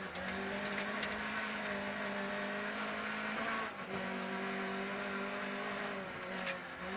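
VW Golf GTI rally car engine heard from inside the cabin, held at steady high revs under full throttle, with gravel and road noise underneath. The note dips briefly about four seconds in, then picks up again at the same pitch.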